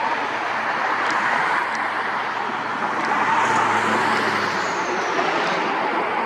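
Jet airliner engines running as the aircraft passes: a steady roar, with a low hum and a high whine that falls in pitch around the middle.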